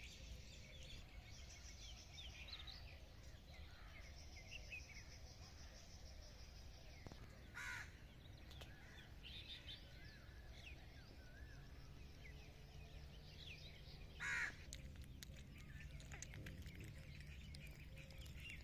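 Faint outdoor ambience: distant birds chirping and trilling, with two short, louder bird calls, one about eight seconds in and one about fourteen seconds in, over a low steady background hum.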